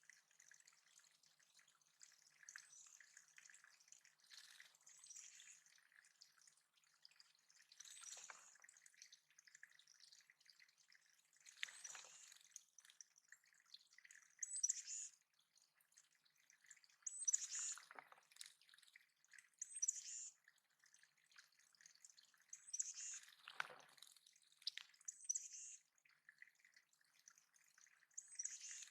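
Water dripping and trickling into a small backyard bird pond, faint, with a few louder splashy drops scattered through it.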